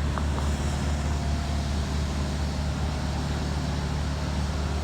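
Steady low mechanical hum over a constant noise, unchanging throughout.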